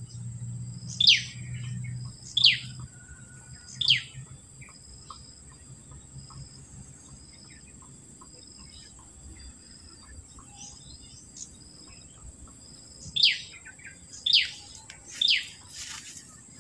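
A bird calls with a sharp call that falls in pitch: three times about a second and a half apart, then silent for a while, then three more times near the end. Under the calls runs a steady high insect drone.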